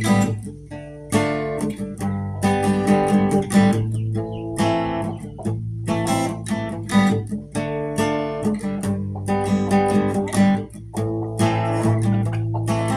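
Acoustic guitar strummed in chords, an instrumental break of a country-style song with no singing.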